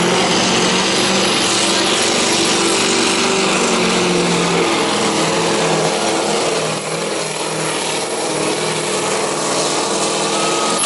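Scania pulling truck's diesel engine running hard under load, dragging the weight sled; the engine note holds fairly steady, easing slightly about seven seconds in.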